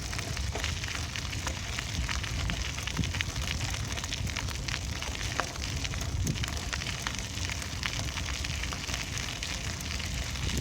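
Bicycle riding noise: a steady low rumble with many small crackles and ticks from the tyres rolling over a rough surface.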